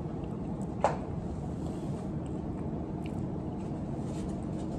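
Chewing a mouthful of pasta over steady background noise, with one sharp click about a second in.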